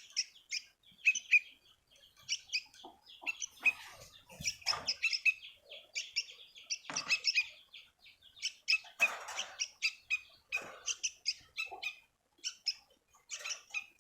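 A small bird chirping over and over in short, high notes, with a few brief rustles in between.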